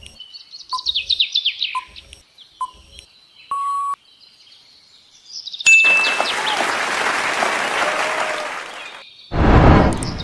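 Quiz-timer sound effects: short evenly spaced pips with quick falling chirps, a brief beep, then about three seconds of hiss-like noise and a loud short burst near the end.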